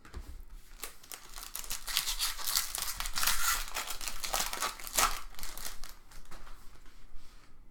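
A trading card pack wrapper crinkling and tearing as it is opened and handled, loudest a little past the middle, with a sharp snap about five seconds in.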